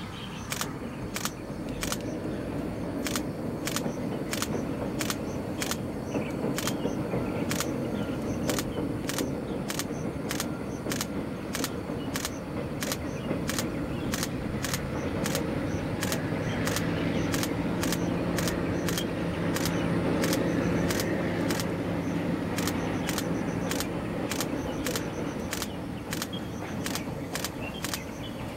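Distant train crossing a long steel truss bridge: a faint low rumble that swells a little past the middle, with a steady low hum for several seconds. Even, sharp clicks, a little under two a second, cut through it.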